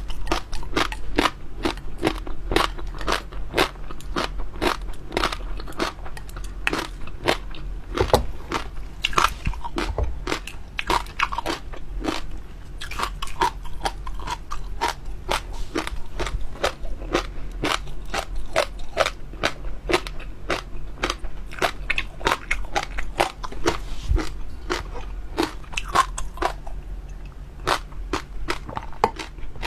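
A person chewing and biting close to the microphone, a fast, continuous run of crunchy, crackling clicks from chewy jelly pearls and jelly being eaten.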